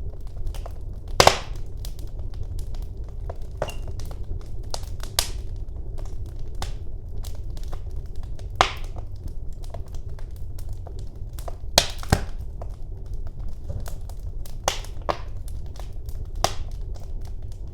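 Wood fire burning in a fireplace: irregular crackles and sharp pops over a steady low rumble of the flames, with the loudest pops about a second in and about twelve seconds in.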